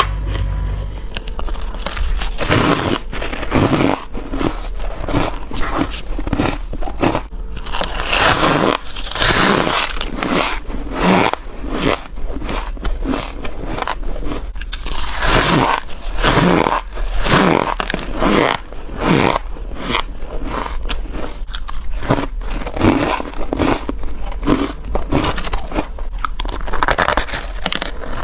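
Freezer frost being bitten and chewed: a continuous run of crisp, squeaky crunches, several a second.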